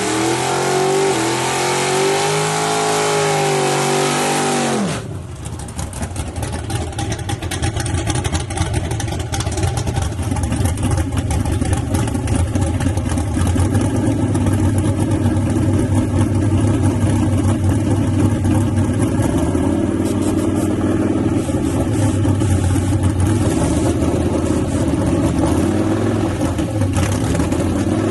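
A drag-racing S10 truck's engine at high revs, its pitch climbing and then falling, cut off abruptly about five seconds in. After that comes a steady, choppy engine idle.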